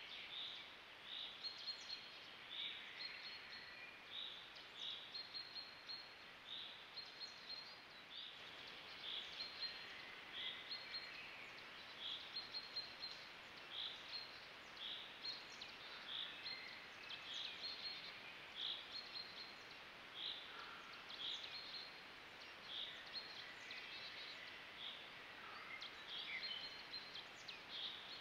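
Spring woodland birdsong: one bird repeats a short, high phrase about once a second, with other birds singing faintly in the background over a soft outdoor hiss.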